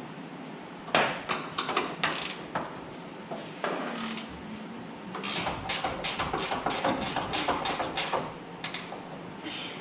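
Socket ratchet being worked on a 1/2-inch hood bolt. It gives a few irregular clicking strokes about a second in, then a steadier run of strokes, about three a second, from around five to eight seconds.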